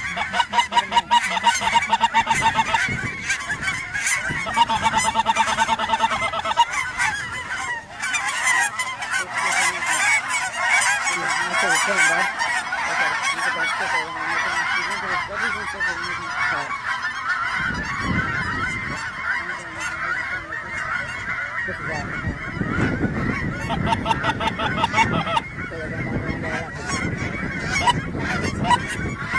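A large flock of geese honking and calling, a dense continuous clamour of many birds, with louder runs of quick repeated honks at times.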